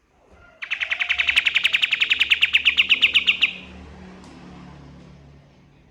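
A kapas tembak songbird singing one rapid, even trill of about ten notes a second for roughly three seconds. The trill stops abruptly and leaves a fading echo.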